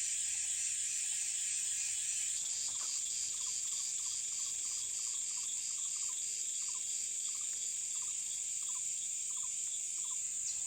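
Forest insects, crickets or cicadas, buzzing steadily in a high, shrill band. From about two seconds in, a second caller joins with short chirps repeated a little over twice a second.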